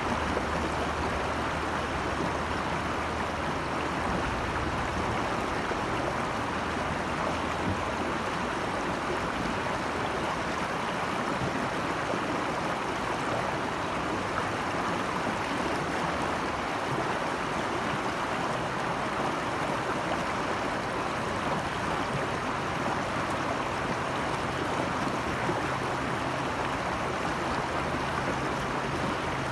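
Rushing stream water, a steady, unbroken rush.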